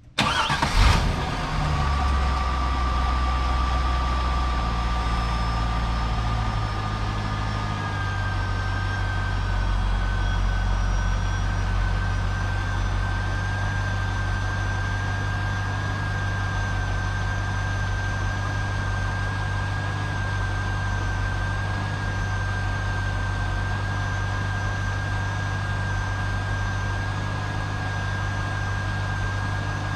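C5 Corvette's 5.7-litre V8 starting, catching about a second in, then idling steadily; the idle note changes about eight seconds in and holds. A thin steady whine sits above the engine.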